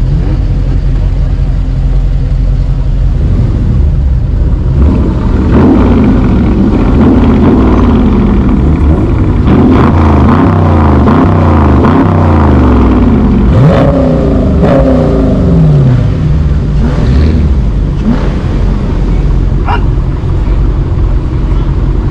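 Car engines idling with a low rumble, then revved again and again from about four seconds in, the pitch climbing and dropping in quick overlapping sweeps, before settling back toward idle after about sixteen seconds.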